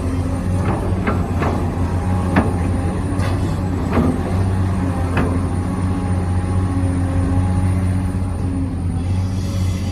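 Remote-controlled model excavator running with a steady hum, with a few short knocks and clicks through the first half.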